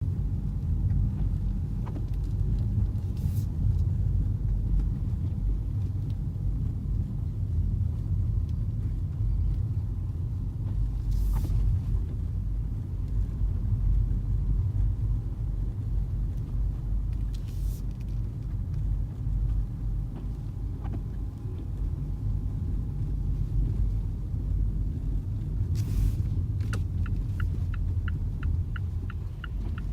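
Car driving on snow-covered roads: a steady low rumble of engine and tyres, with a brief swish every several seconds and a run of fast, even ticks near the end.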